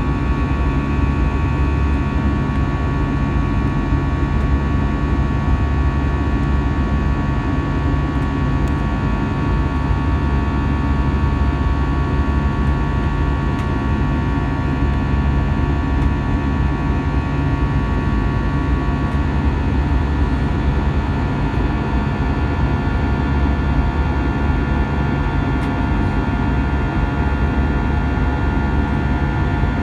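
Airbus A320-200 cabin noise from a forward window seat: a steady jet engine and airflow drone with several steady tones, one of which fades about two-thirds of the way through.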